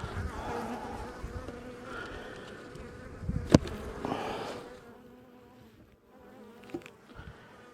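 Honey bees buzzing around an open hive, a steady, wavering drone. A single sharp knock comes about three and a half seconds in, and the buzz grows fainter in the second half.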